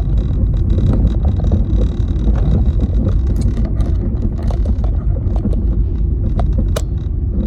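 Car driving on the road: a steady low rumble of engine and tyre noise, with scattered light clicks and knocks.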